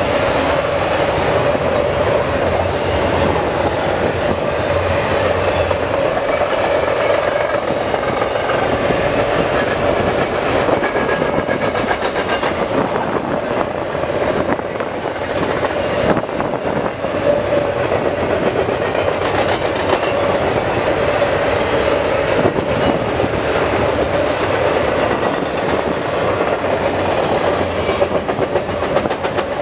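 Double-stack intermodal container cars of a CN freight train rolling past: steady steel-wheel-on-rail noise with a steady ringing tone and occasional sharp clacks of wheels over the rail.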